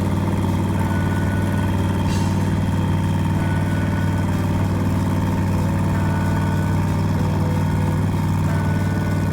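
Twin-turbo LS V8 engine of a drag-race BMW E46 idling steadily at a constant pitch, with a short faint beep repeating about every two and a half seconds.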